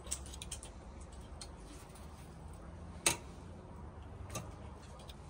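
A few scattered light clicks and knocks over a low steady hum, the sharpest about three seconds in.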